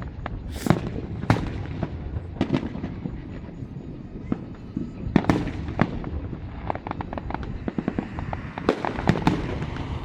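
Fireworks going off: a string of sharp bangs and cracks at irregular intervals, with crackling in between and a steady low rumble under them.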